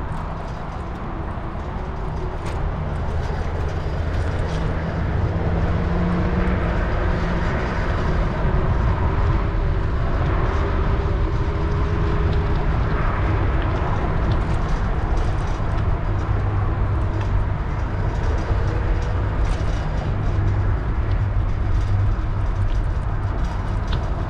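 Steady low rumble of wind and tyre noise from riding a bicycle, with faint passing traffic whose pitch rises and falls, growing somewhat louder after the first few seconds.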